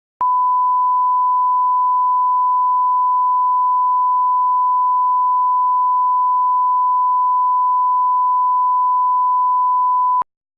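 A steady 1 kHz reference test tone, one unbroken pure beep about ten seconds long that starts and cuts off abruptly, the line-up tone laid at the head of an edited video programme.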